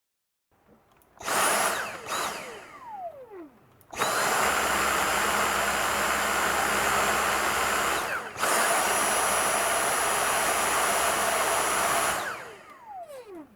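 Dyson DC62 cordless stick vacuum switched on briefly about a second in, then released, its motor whine falling as it spins down. It starts again about four seconds in and runs steadily with a high whine, cuts out briefly around the middle, and is switched off near the end, winding down with a falling whine.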